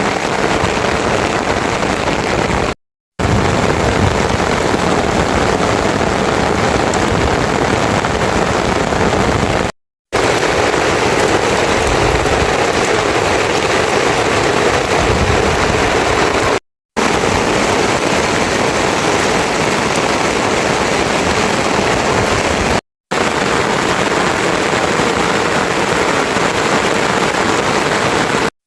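Heavy rain pouring down in a steady, loud hiss, dropping out to silence for a split second four times.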